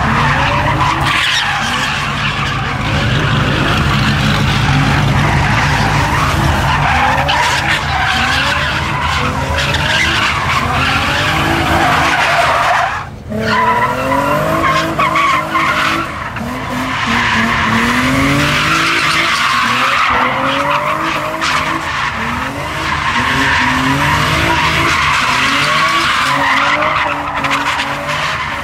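Cars doing burnouts and donuts: tyres screeching against the pavement while engines rev hard again and again, the pitch climbing with each rev. There is a short drop in the noise about halfway through.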